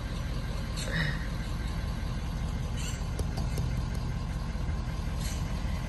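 A vehicle engine idling steadily, a low even rumble, with a few faint brief knocks over it.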